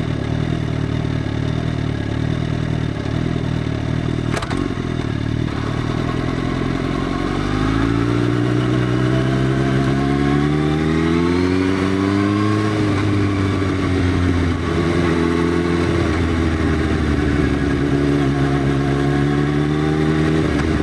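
Motorcycle engine through an Arrow full exhaust system with the dB killer removed, running at a steady low speed with one sharp click about four seconds in. About halfway through, the engine speed climbs smoothly over several seconds, drops back briefly, then holds steady at a higher speed.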